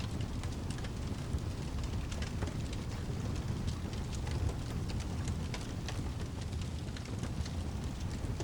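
Rain and fireplace ambience: a steady low rumble under many scattered sharp crackles and ticks.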